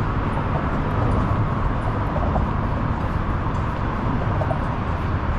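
Steady low rumbling outdoor noise, an even hiss and rumble with no distinct events.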